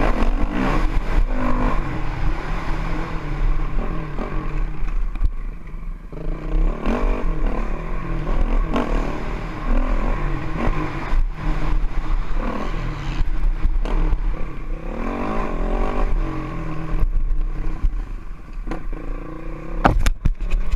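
Honda CRF450X's single-cylinder four-stroke engine revving up and dropping back again and again as the bike is ridden, with a few sharp knocks.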